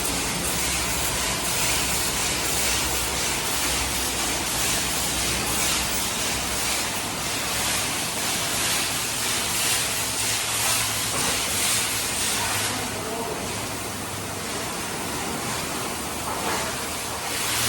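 Express car wash tunnel running: a steady hiss of water and chemical spraying from the arches, with machinery hum underneath. The hiss eases a little for a few seconds late on, then builds again near the end.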